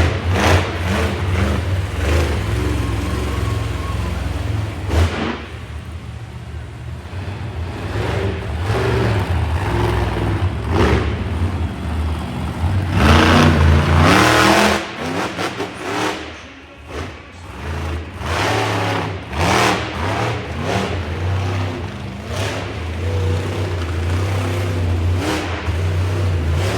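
Monster truck engine running and revving in surges, with a hard rising rev about halfway through and a brief easing off soon after.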